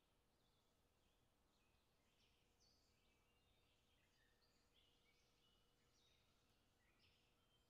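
Near silence: faint background hiss with distant birds chirping, many short high notes throughout.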